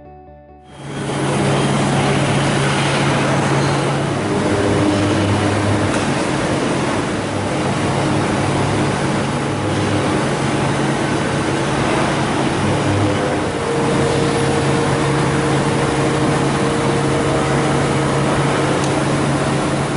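Colchester Magnum LB800 heavy-duty gap-bed lathe running: a loud, steady mechanical drone with constant hum tones, starting about a second in, with a higher hum joining past the middle.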